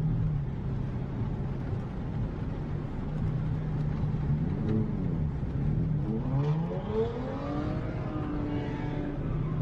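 Road traffic engine noise: a steady low engine hum, with engine notes gliding up and down in pitch several times in the second half.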